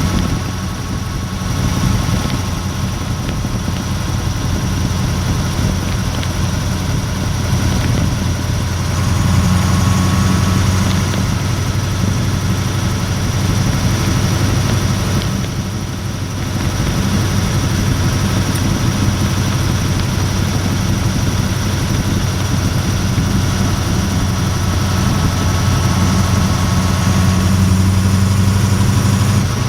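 Perkins 540 cubic inch V8 diesel engine of a Leyland Mastiff truck running under way, heard from inside the cab as a steady low drone. Its level drops briefly twice, about a second in and about halfway through.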